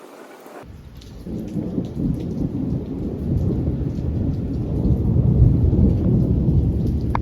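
Thunder rumbling, building over several seconds to a loud, long peak, with rain falling and drops ticking throughout.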